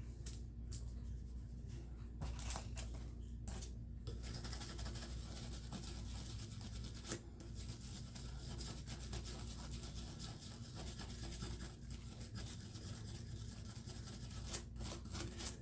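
An Otis surface prep block scrubbing a knife blade, scratchy rubbing strokes as grime is worked off the soaked steel. The rubbing comes in a few separate strokes at first, then turns steady about four seconds in.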